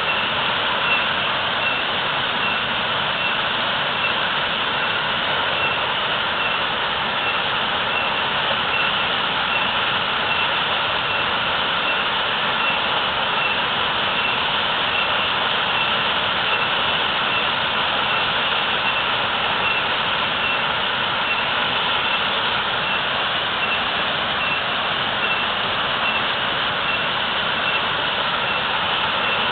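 Waterfall, water falling heavily and splashing in a steady, unbroken rush.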